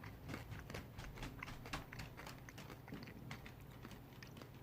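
Faint crunching of candy-coated chocolate M&M's being chewed, a steady run of small, irregular clicks.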